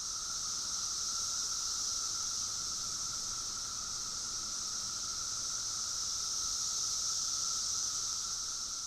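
Chorus of Brood X periodical cicadas droning steadily: a high buzz with a lower, narrower hum beneath it, beginning to fade near the end.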